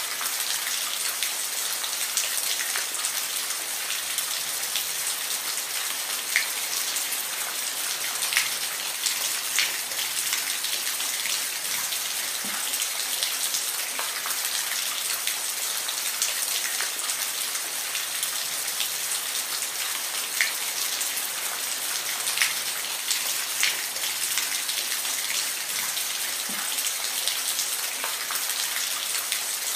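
Steady rain falling, with individual drops ticking sharply on a nearby surface every second or so over a constant hiss.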